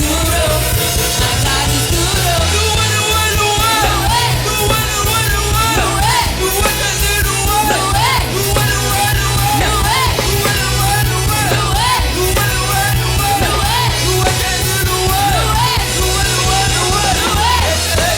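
Worship band music with a steady, heavy bass and a melody line that bends up and down in pitch.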